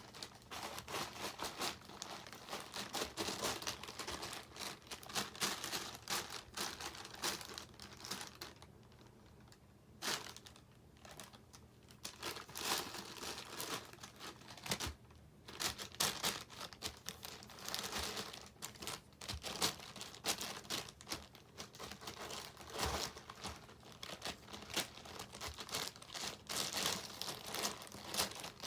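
Crinkly plastic wrapper crackling and rustling in irregular flurries as a cat plays with it, with brief lulls about nine, fifteen and twenty-two seconds in.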